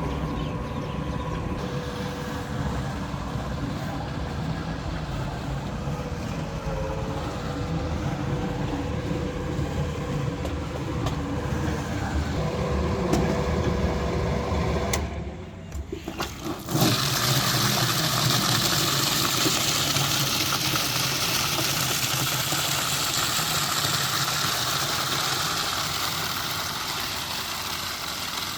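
A motor or engine runs with a steady low rumble. About fifteen seconds in it breaks off briefly, and then a steady rushing hiss takes over.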